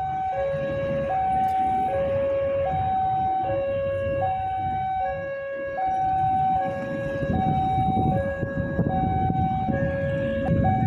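Electronic two-tone railway warning alarm at the line beside Palmerah station, alternating steadily between a high and a low tone, about one high-low cycle a second, over a low rumble.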